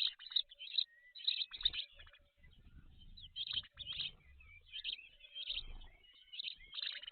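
High-pitched bird chirping in quick clusters of short notes, thinning out in the middle and picking up again near the end, with a faint low rumble underneath in the middle.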